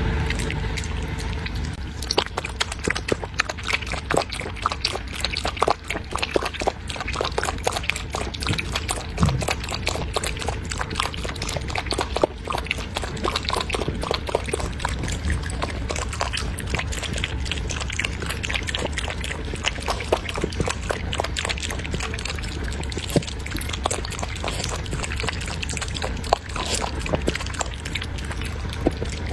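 Puppy eating from a bowl: a steady stream of wet smacking, lapping and chewing clicks.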